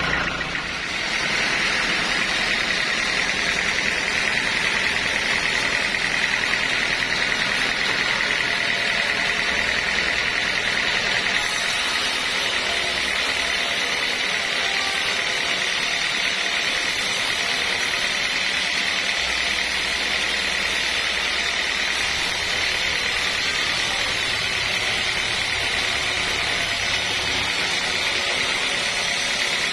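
Sawmill running, a saw cutting through timber, with a steady high-pitched whine over machine noise that sets in about a second in.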